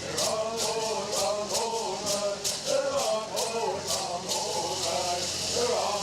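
A group of voices singing a Southern California bird song in unison, kept in time by rattles shaken about three times a second. The rattles stop about two-thirds of the way through while the singing goes on.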